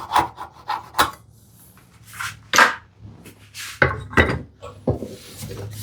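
Hand saw cutting through a small piece of wood: a few quick strokes, then two longer strokes about two seconds in, followed by a few sharp wooden knocks.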